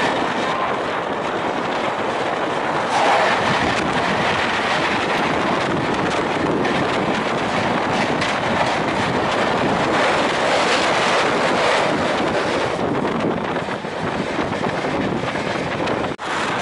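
Steady rushing clatter of wheels on rail and wind, heard from the open doorway of a moving Indian express train, as another passenger train runs past on the adjacent track. The noise swells about three seconds in, eases near the end and drops out for a moment just before the end.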